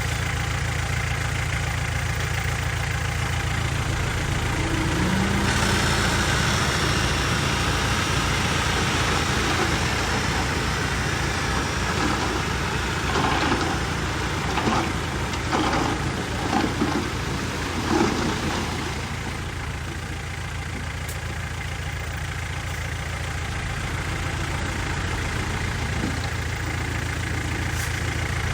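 Diesel engine of heavy earthmoving machinery running steadily, with a louder rush of noise a few seconds in and a string of clanks and knocks around the middle.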